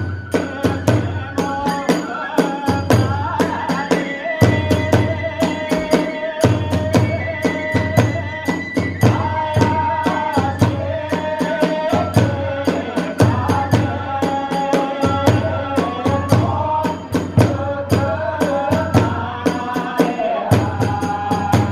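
Kagura hayashi ensemble playing a fast dance piece: a bamboo flute (fue) melody over a rapid, driving beat of drums and small tebyōshi hand cymbals.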